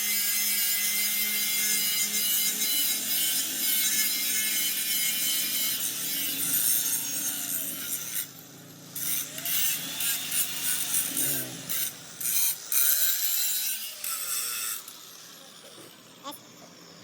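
Workshop tool work on a machine part: continuous scraping and rubbing for about eight seconds, then coming in short spells with pauses, and dying away near the end.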